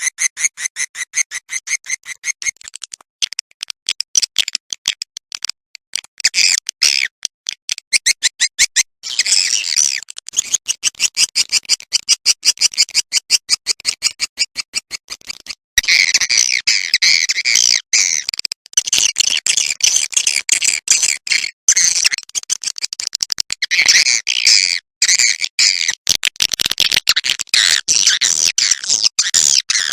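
Swiftlet roosting calls played as a bird-house lure: dense, rapid trains of high-pitched clicking chirps and chitters that run on with only brief breaks.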